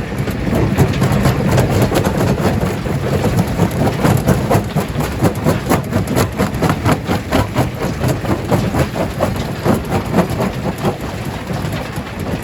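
Stone crusher at work: a heavy machine rumble under a rapid, irregular clatter of rocks knocking and cracking, which grows busier a few seconds in and thins out near the end.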